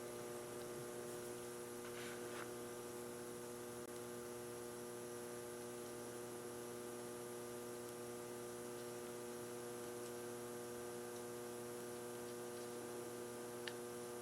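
Steady electrical mains hum, made of several constant tones, with a faint click near the end.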